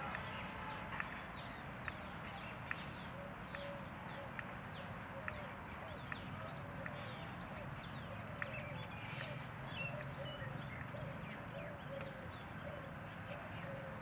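Many small birds chirping, with a dense run of short falling chirps. A faint tick repeats about once a second under the birdsong.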